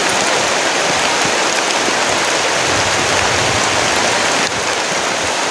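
Heavy rain pouring steadily in forest, a loud, even hiss.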